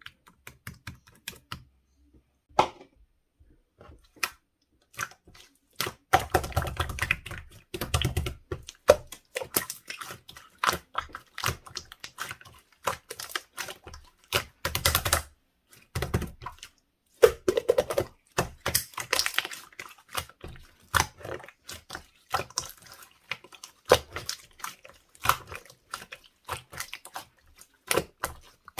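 Slime being pressed, squished and worked by hand, giving fast runs of sticky clicks and crackles. It starts with scattered clicks and becomes dense and busy after about six seconds.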